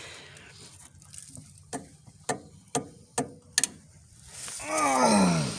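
Hand tools clicking against the tractor's steering-linkage metal: about five sharp, separate clicks. Near the end comes a louder, drawn-out voice-like call that falls in pitch for about a second.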